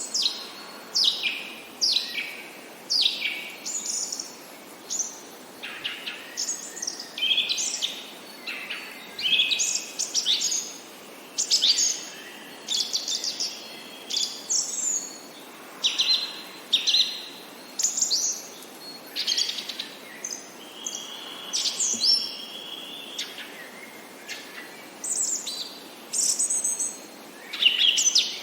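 Songbirds chirping and singing: a steady run of short high notes and quick downward-sweeping phrases, one after another, over a faint steady hiss, with one longer held note past the middle.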